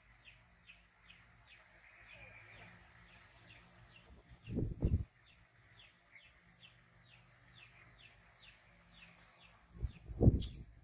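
A bird chirping steadily in the background, an even series of short falling chirps, about three a second. Twice, about halfway through and again near the end, a brief loud low rumble covers it.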